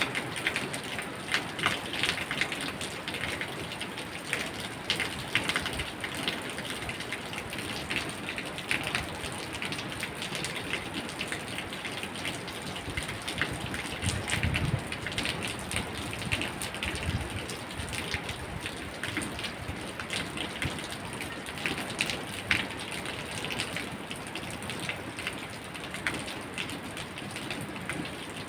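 Steady rain falling, with many individual drop impacts heard separately through the hiss. A low rumble comes in briefly about halfway through.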